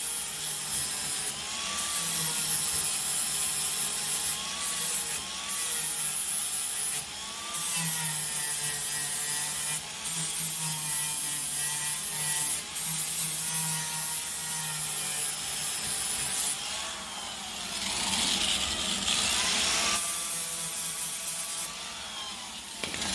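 Electric grinder working over welded sheet-metal patches, with a steady rasping hiss. Its motor whine dips and recovers again and again as the disc bites and lifts, with a few brief pauses.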